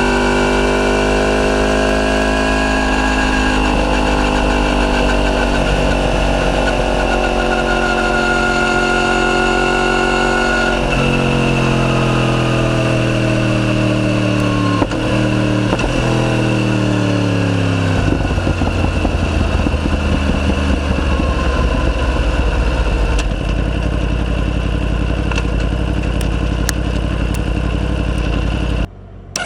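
Yamaha YZF-R1's crossplane inline-four running loud through a de-catted Akrapovic full titanium exhaust. Its pitch climbs slowly for about ten seconds, then falls away for several seconds as the bike slows, and it settles into a steadier, rougher running note. The sound cuts out briefly near the end.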